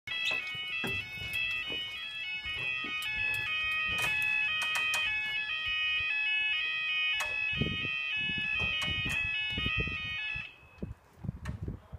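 Loud electronic tones stepping back and forth between several pitches, with scattered clicks, that cut off suddenly about ten and a half seconds in.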